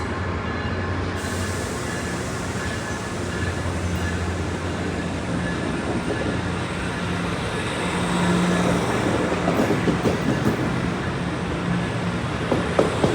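A train running past: a steady rumble with a low hum, and scattered sharp clicks from the wheels in the last few seconds.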